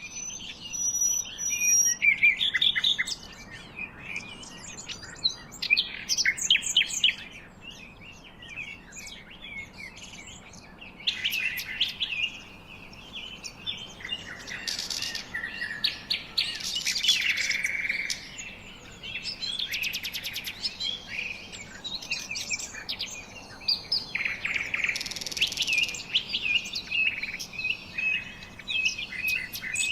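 Several songbirds chirping and singing, with rapid overlapping trills and chirps that come in bursts throughout.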